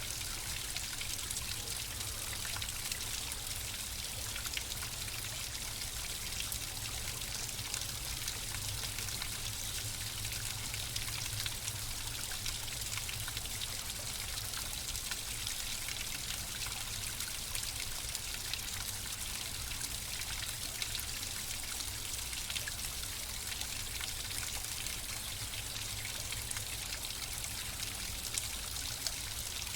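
Flowing water, a stream or brook trickling and splashing steadily, with many small splashes over a low rumble.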